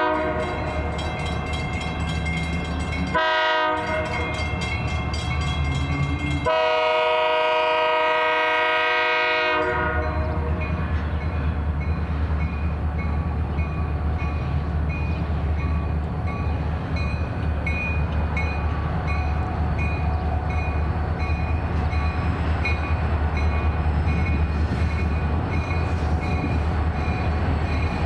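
Freight train locomotive horn sounding in long blasts for about the first ten seconds, then the train passing with a steady low rumble and rhythmic clicking of wheels over rail joints.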